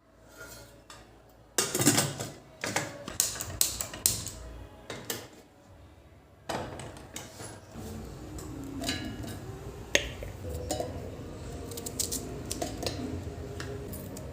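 Kitchen utensils and dishes clinking and knocking: a quick run of sharp knocks in the first few seconds, then scattered lighter clinks over a steady background hiss.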